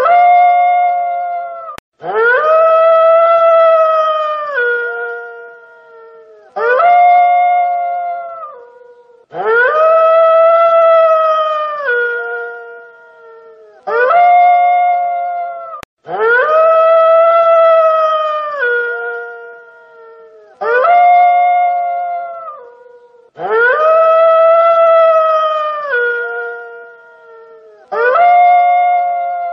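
Wolf howling: a shorter howl and then a longer one, the same pair repeating about every seven seconds. Each howl starts abruptly, rises a little in pitch, then steps down and fades away.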